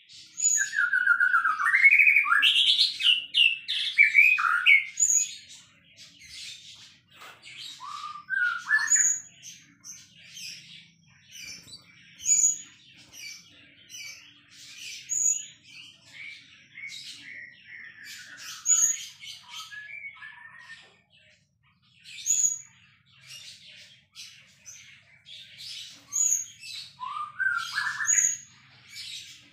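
White-rumped shama (murai batu) singing a varied song. It opens with loud whistled, gliding phrases over the first few seconds, then runs on in a long string of quick, high chips and short notes, with a few lower whistled phrases again near the end.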